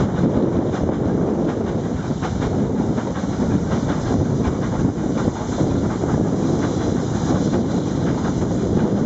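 A passenger carriage running along the line, heard from its open window: a steady rumble of wheels on the rails with frequent clicks.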